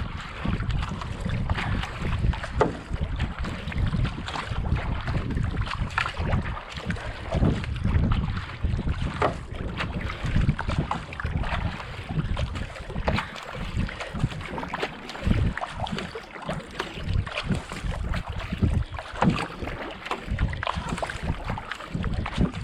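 Kayak paddle blades splashing into and pulling through canal water, stroke after stroke in a steady paddling rhythm, with wind buffeting the microphone.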